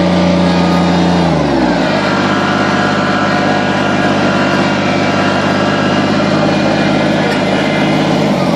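Kubota BX2360 compact tractor's three-cylinder diesel engine running at high revs, then winding down about a second and a half in to a lower, steady speed, rising slightly again near the end.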